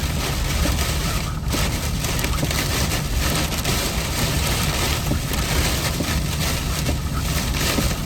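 Steady noise of a car driving in heavy rain, heard from inside the cabin: a low road and engine rumble with an even hiss of rain and wet tyres over it.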